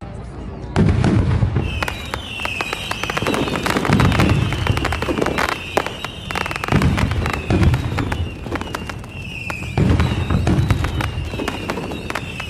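Fireworks going off: dense crackling throughout, with a low boom every couple of seconds. From about two seconds in, short whistles fall in pitch again and again.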